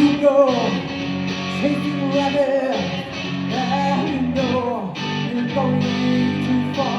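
A singer performing a song to guitar accompaniment.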